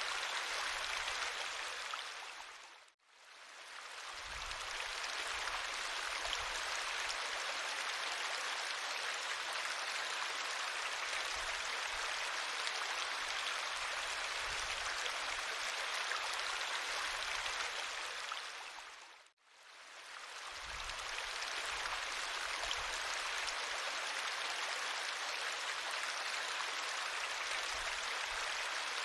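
River water flowing, a steady rush. It fades out to silence and back in twice, about three seconds in and again near twenty seconds.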